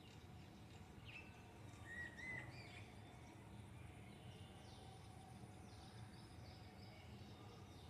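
Faint background noise with a few quiet bird chirps: short whistles about one to two and a half seconds in and quick falling notes near the middle.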